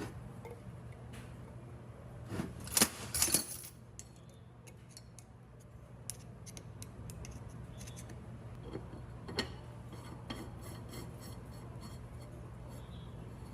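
Small metal parts clinking and knocking against each other: a cluster of sharp knocks about two to three and a half seconds in, then scattered lighter clicks and taps, over a steady low hum.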